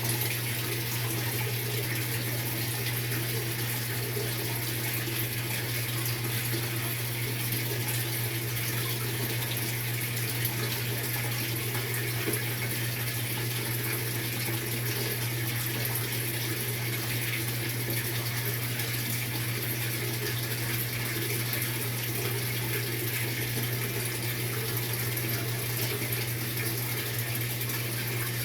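Maytag MVWX655DW1 washing machine running its tub clean cycle: a steady rush of water pouring into the tub, with a low hum underneath.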